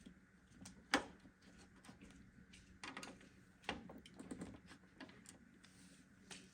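Faint, irregular clicks and knocks of small hard parts being handled and taken off while a desktop computer case is being assembled, with one sharper knock about a second in.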